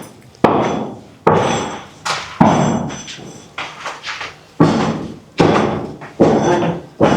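Steady hammer blows at a construction site, a little more than one a second, each strike ringing briefly before the next.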